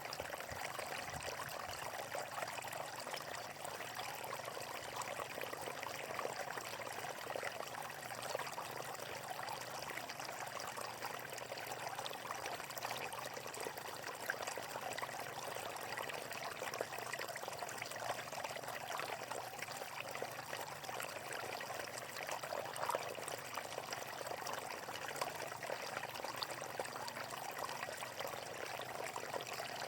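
Water flowing steadily in a natural watercourse: a constant rush peppered with fine splashing and trickling.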